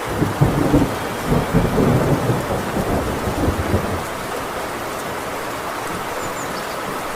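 Heavy rain falling steadily on a tin roof, with a peal of thunder that breaks out at the start, rumbles and crackles for about four seconds, then dies away under the rain.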